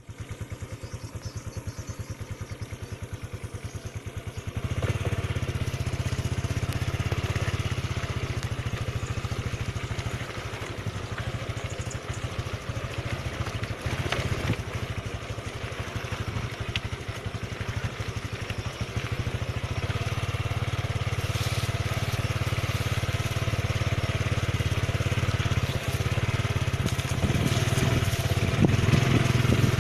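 Motorcycle engine running steadily, heard from on the bike, with road and wind noise. It gets louder about four to five seconds in, eases off somewhat around the middle, and rises again for the last ten seconds as the throttle is opened.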